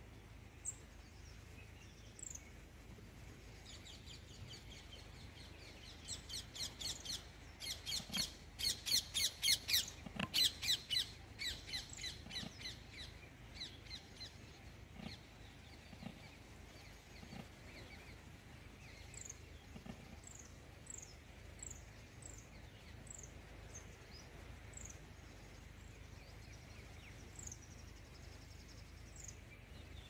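A small songbird calling: a rapid run of high, repeated chattering notes builds from about four seconds in, is loudest around ten seconds and fades out by about fourteen. After that, single thin, high chips with a falling pitch come every second or so.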